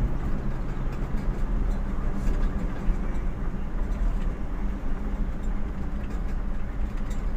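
Vehicle engine and road noise heard from inside the cabin while driving: a steady low drone with faint rattles and clicks.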